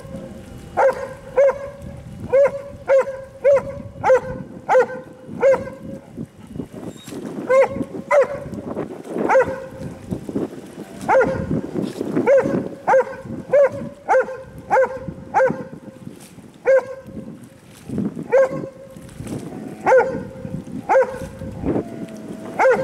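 A dog barking over and over in short, high barks, about one and a half to two a second, with a short pause about six seconds in.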